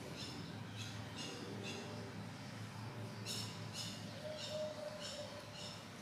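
A small bird chirping repeatedly: short, high chirps about two a second, in runs with a short gap near the middle.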